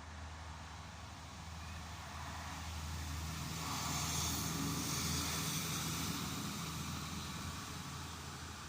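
A motor vehicle passing by: a low engine hum and rushing noise swell over a few seconds, peak mid-way, then fade away.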